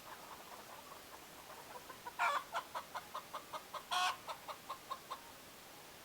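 Layer hen cackling: a quick run of short clucks, about five a second, with two louder squawks, one about two seconds in and one about four seconds in, stopping a little after five seconds.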